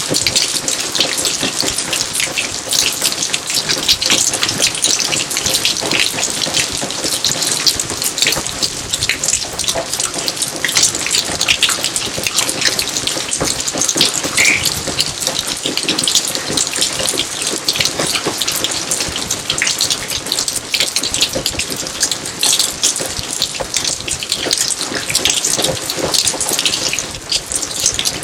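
Steady rain, a dense patter of countless drops hitting surfaces, with one short high plink about halfway through.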